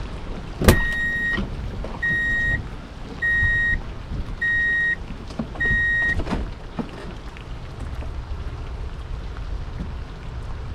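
Five evenly spaced electronic beeps, each about half a second long and all at the same high pitch, starting right after a sharp click and ending with another click. A low rumble of wind and rain noise sits underneath throughout.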